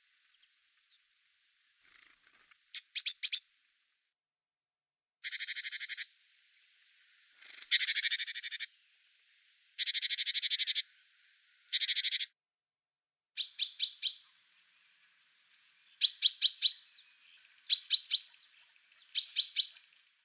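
Small songbird calling in short, high-pitched bursts of rapid notes, about eight phrases with pauses between them; the later phrases are quick runs of ticking notes.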